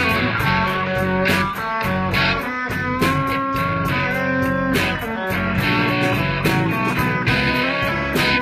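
Live blues-rock band playing an instrumental passage: electric guitar over bass and drums with a steady beat.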